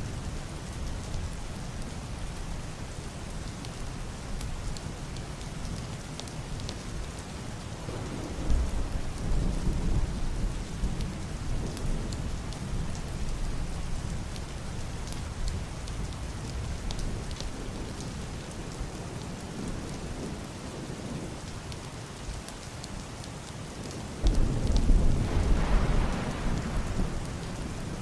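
Heavy rain beating steadily on a roof and window glass, with scattered drip ticks. A low, muffled thunder rumble swells about eight seconds in and fades. A louder roll of thunder breaks in suddenly about 24 seconds in and rumbles for a few seconds.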